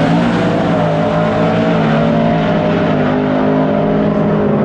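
Full-size pickup trucks drag racing at wide-open throttle, their engines held at a high, nearly steady pitch just after the launch, with a broad rush of tyre and exhaust noise.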